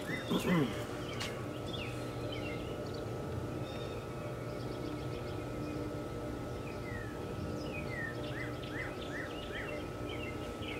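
Songbirds chirping in the background, a string of short falling chirps, over a steady low hum. There is a brief louder sound just at the start.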